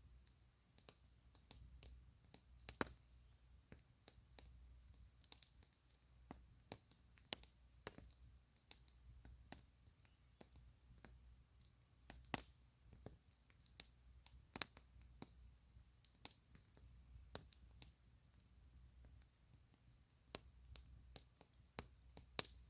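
Campfire crackling faintly: scattered sharp pops and snaps at irregular intervals, over a faint low rumble.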